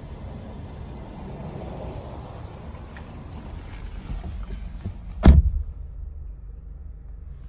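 The Volkswagen Jetta's 1.4-litre turbocharged four-cylinder engine idling steadily, with a single loud thump about five seconds in.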